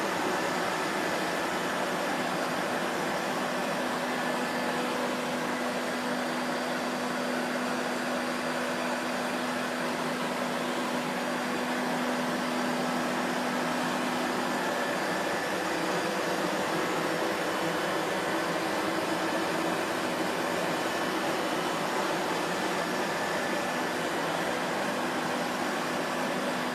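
Vacuum cleaner running steadily: an even motor whine and rushing air with a faint hum, unchanging throughout.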